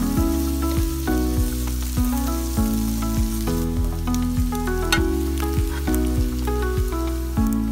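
Fish pieces and sliced onions sizzling in a nonstick frying pan as a wooden spatula stirs them, the sizzle fading about halfway through, over background music.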